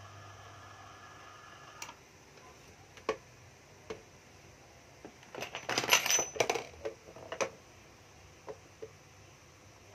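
Hard plastic and metal handling clatter: a few sharp clicks, then a burst of clinking and rattling in the middle lasting about two seconds. Before that, a faint steady hum cuts off about two seconds in.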